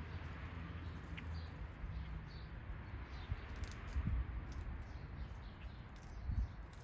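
Backyard birds giving short, faint chirps, over a steady low outdoor rumble with scattered light clicks.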